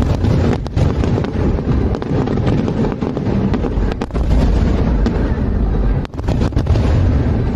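Fireworks display: rapid, overlapping aerial shell bursts, booms and crackles over a continuous low rumble, with a brief lull about six seconds in.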